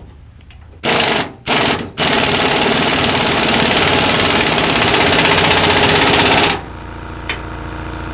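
Impact wrench hammering a nut tight on a bolt: two short bursts, then a steady run of about four and a half seconds that stops suddenly as the nut is torqued up.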